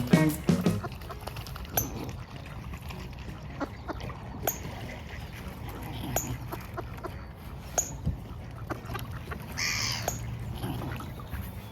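Waterfowl calling: scattered short calls and one louder call about ten seconds in, over a steady low background rumble.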